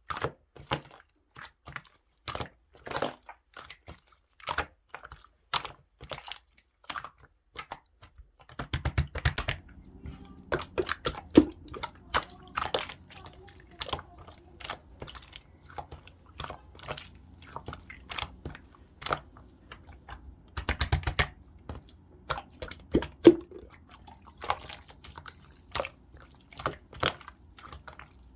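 Clear slime being pressed, folded and poked by hand, giving irregular sticky clicks and small pops, some in quick runs.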